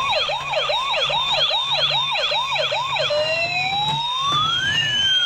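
Electronic siren of a toy police car: a fast yelp of about three sweeps a second, changing a little after three seconds in to a slow wail that rises and then falls.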